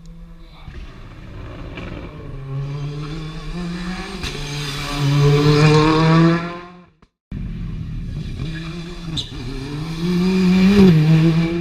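Rally car engines at high revs on a special stage. One car's engine climbs in pitch and loudness as it approaches, then fades. After a short break a second car comes through, revving up to a peak near the end before dropping off.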